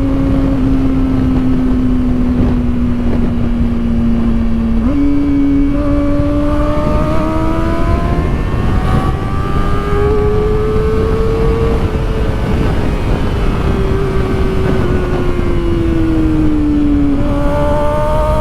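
Kawasaki Ninja ZX-4RR's 399 cc inline-four engine at high revs under a steady rush of noise. Its pitch sags slightly, steps up about five seconds in, climbs steadily for several seconds as it accelerates, then eases back down near the end.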